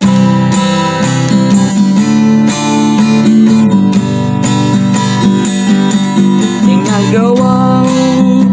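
Acoustic guitar strumming chords in a steady rhythm, playing the intro of a folk song. About seven seconds in, a sliding melodic line comes in over the strumming.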